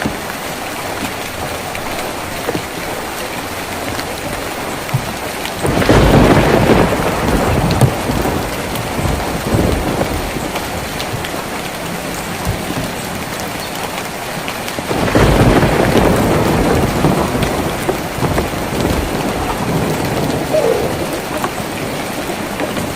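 Steady rain pattering on a tin roof, with two rolls of thunder, one about six seconds in and another about fifteen seconds in, each starting suddenly and fading over several seconds.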